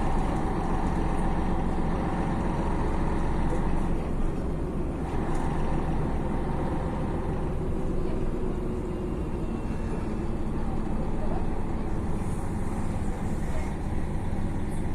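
Steady engine and road noise of a moving city bus, heard from inside the passenger cabin.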